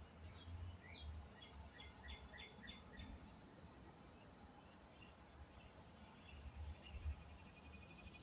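Quiet backyard ambience: a songbird gives a quick run of about seven short chirps about a second in, then a few softer notes. A steady insect trill starts near the end, over a faint low rumble.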